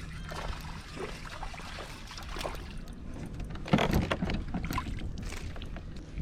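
Water sloshing and small knocks and clicks on a fishing kayak, with a louder burst of splashing and knocking about four seconds in.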